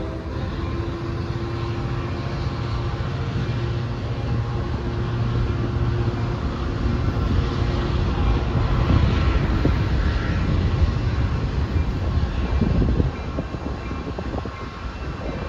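Passenger train pulling away: a diesel locomotive running with its low rumble and the wheels rolling on the rails, a steady noise that drops off noticeably near the end.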